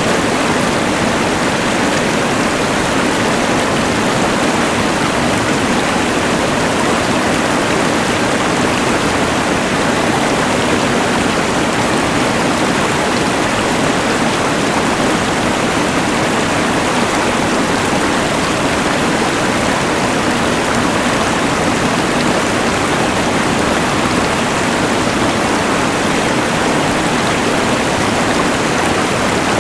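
Rushing mountain river blended with the hiss of a LectroFan white noise machine: a loud, steady, unbroken wash of noise that never changes.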